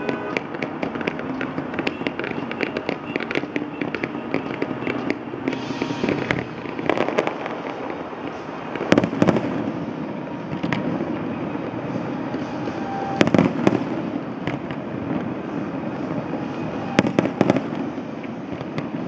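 Fireworks going off: a steady, dense crackling of many small reports, with three louder bangs about halfway through, around two-thirds of the way and near the end.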